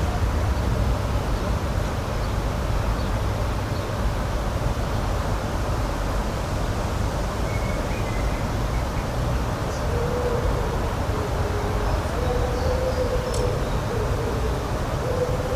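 Outdoor nature ambience: a steady rushing noise weighted to the low end, with a few faint high chirps. From about ten seconds in, a faint wavering hum like a distant engine joins it.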